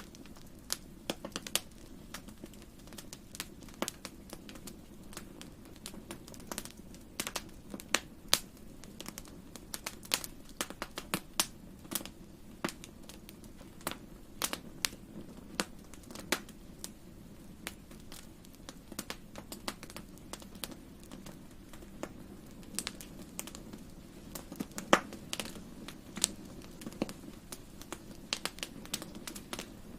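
Wood fire crackling in a fireplace: irregular sharp pops and snaps, bunched several to a second at times, over a low steady hum.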